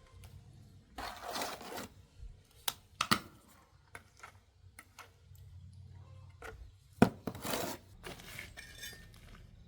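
Scattered clinks, knocks and short scrapes of hard objects being handled, the loudest a sharp knock about seven seconds in.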